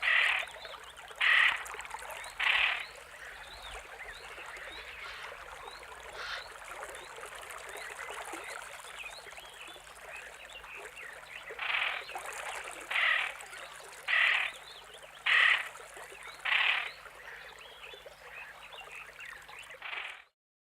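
A bird giving a loud call over and over, about once every second and a bit, in two runs: four calls at the start and five more about twelve seconds in. Behind it runs a steady chorus of many small chirps.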